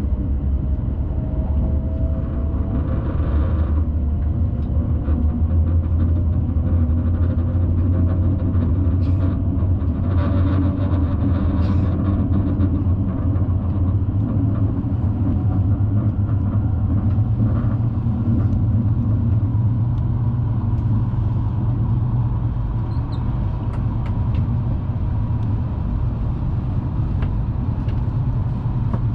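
Steady rumble of a Hayabusa Shinkansen train running along the line, heard inside the passenger cabin. A faint whine slowly rises in pitch over the first several seconds.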